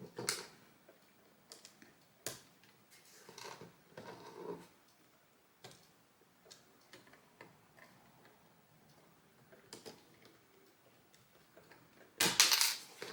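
Plastic Lego pieces being handled and pressed back together: scattered sharp clicks with some rustling, and a louder clatter near the end.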